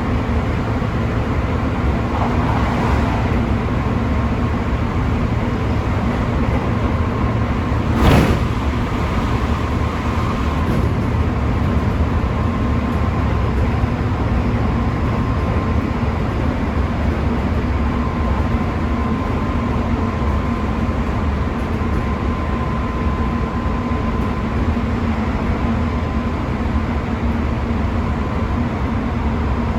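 Chiba New Town Railway 9100-series electric train running at steady speed, heard from inside the car: a steady rumble of wheels and running gear with a faint steady tone. A single sharp knock comes about eight seconds in.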